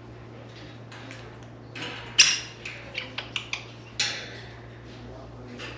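Scrabbling and rustling, then a quick run of sharp clicks and a single knock about four seconds in: an African grey parrot moving about and handling things in its cage.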